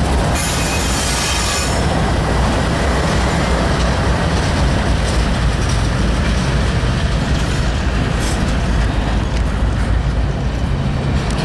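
CSX freight train passing close by: the last GE diesel locomotives (an ES44AH, then an AC44CW) rumble past, then intermodal double-stack well cars roll by with steady wheel-on-rail noise.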